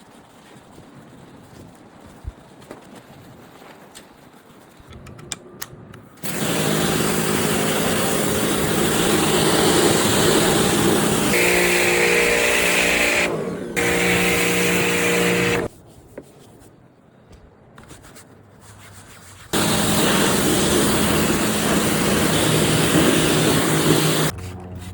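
Pressure washer running in bursts: its pump motor hums steadily under a loud hiss of spray for about nine seconds, stops for about four, then runs again for about five seconds and cuts off near the end. The first six seconds hold only faint handling clicks.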